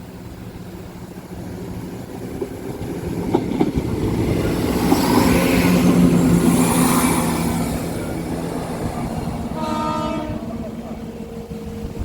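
Diesel multiple-unit passenger train passing over a level crossing, its engine and wheel noise growing to loudest mid-way and then easing. It gives a short horn blast about ten seconds in.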